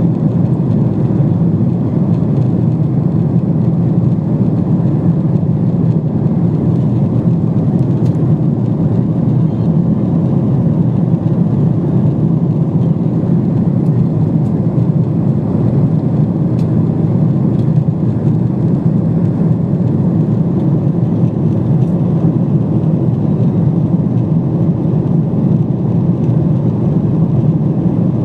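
Steady cabin noise of a Boeing 777-200 airliner in cruise flight: an even, deep roar of engines and airflow that does not change, with a few faint clicks.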